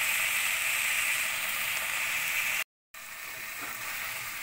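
Raw chicken wings with garlic, onion and ginger sizzling steadily in oil in a stainless steel pot, just starting to brown. About two-thirds through, the sound cuts out for a moment, then a quieter hiss resumes.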